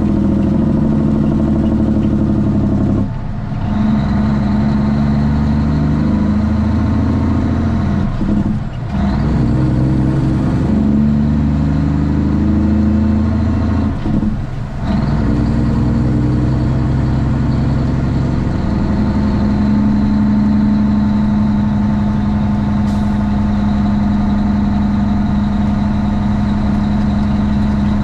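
Straight-piped Cummins ISX inline-six diesel of a Kenworth T800 truck running under way, with three brief dips in sound about 3, 9 and 14 seconds in, as between gear changes, then holding a steady drone. A faint high whine runs over it.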